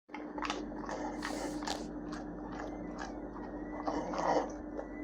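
A bull terrier chewing and crunching food, a quick string of crisp crunches, with a steady faint hum behind.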